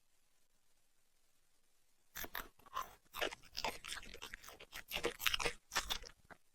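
A puppy chewing and crunching food: a quick, uneven run of crunches starts about two seconds in and stops shortly before the end.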